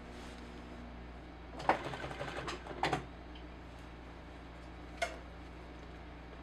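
Sewing machine stitching in a short, quick run of needle strokes lasting about a second and a half, a couple of seconds in, followed by a single sharp click about five seconds in.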